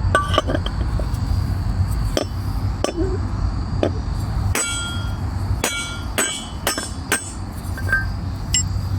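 Hammer blows on a chisel driving a worn metal bushing out of a lawn tractor's front wheel rim: about ten sharp, irregularly spaced metal strikes, several leaving a short ring, over a steady low rumble.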